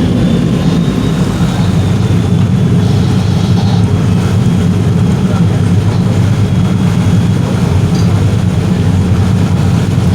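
Motorboat engine running steadily under way, a loud, even low rumble.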